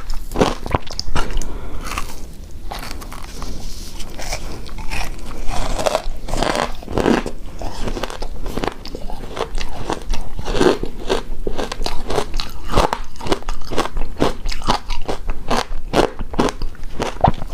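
Close-miked eating of shaved snow ice: continual crunchy bites and chewing of icy dessert, with dense crackling crunches all the way through.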